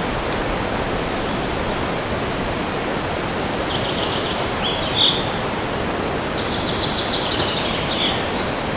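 Steady rush of wind through forest trees, with small birds calling: a few short high chirps near the middle and a quick high trill in the second half.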